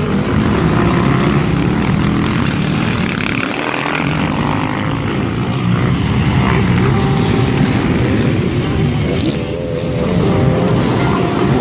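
Dirt bike engines running, loud and continuous, with engine tones that shift in pitch.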